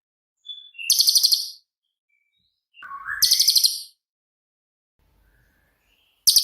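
Cililin songbird singing its 'shooting' song: three short bursts of rapid, sharp, high-pitched notes, about a second in, about three seconds in and near the end. Each burst opens with a softer, lower lead-in note.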